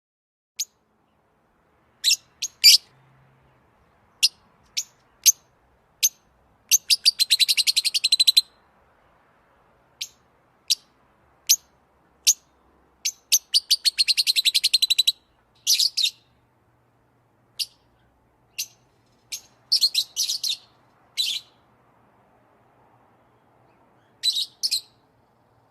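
Songbird chirping: short, high single chirps with pauses between them, broken twice by a fast rattling trill.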